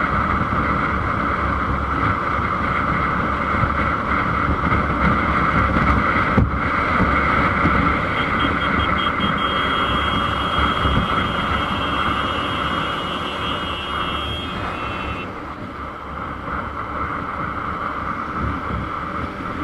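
Motorcycle riding in traffic, with steady engine and road noise and wind on the camera microphone. A faint high steady whine joins for several seconds in the middle.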